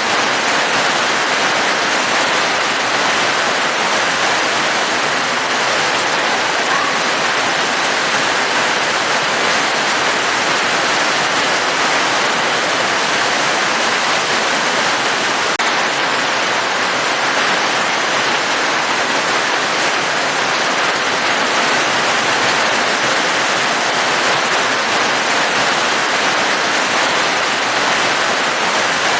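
Falling water in a steady, unbroken hiss, with no separate drops or music standing out.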